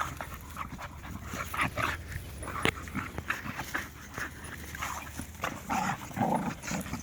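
Dogs at play: scuffling and rustling, with a few short whines and yips toward the end.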